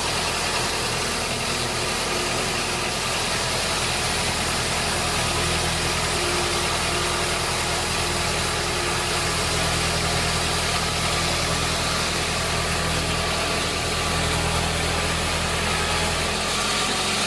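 Sawmill engine running steadily, with a constant hiss of machine noise over it.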